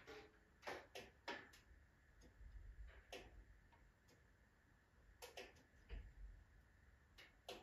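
Wood fire in a wood-burning stove crackling faintly, with irregular sharp pops and a soft low rumble that swells now and then.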